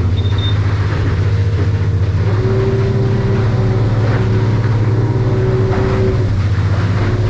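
Yamaha F300 V6 outboard running steadily with the boat under way: a constant low hum, joined about two seconds in by a steady higher tone.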